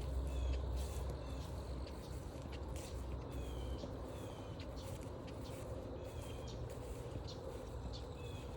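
A bird repeating short down-slurred call notes, roughly one a second, over outdoor ambience with scattered short clicks. A low wind-like rumble eases after about a second and a half.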